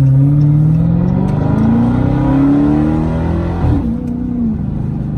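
Dodge Charger Hellcat's supercharged 6.2-litre Hemi V8 accelerating hard through its mid-muffler-deleted exhaust, heard from inside the cabin. The engine pitch climbs, drops back at a gear change about a second and a half in and climbs again, then falls away a little before 4 seconds as the throttle eases.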